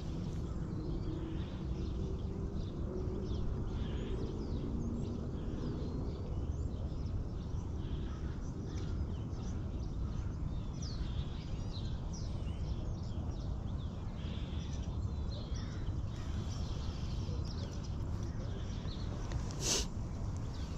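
Birds chirping and calling over a steady low background rumble, with one sharp click about a second before the end.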